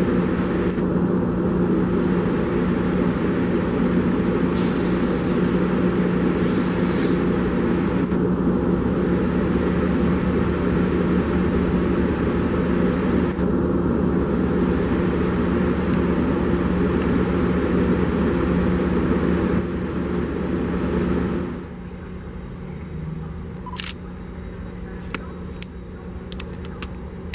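Metrolink diesel commuter train rolling slowly toward the listener, its engine running with a steady low hum. Two short hisses of air come about five and seven seconds in. Near the end the sound drops to a quieter level with a few sharp clicks.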